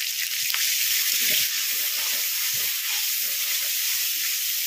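Ground spice paste (dried chilli, ginger and cumin-pepper) frying in hot oil in a kadai with a splash of water just added, giving a steady sizzling hiss as a spatula stirs it.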